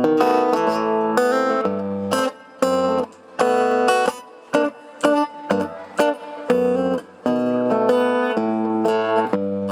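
Acoustic guitar playing the instrumental introduction to a song: chords struck in a steady rhythm, each ringing out, with short breaks between phrases.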